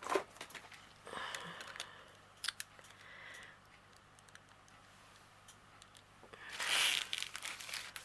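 Small plastic bags of diamond painting drills handled and rustled, crinkling with a few sharp clicks; the loudest crinkling comes near the end.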